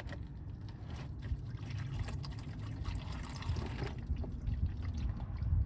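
Engine oil pouring in a steady stream from the oil pan's drain hole into a drain pan, the plug freshly pulled.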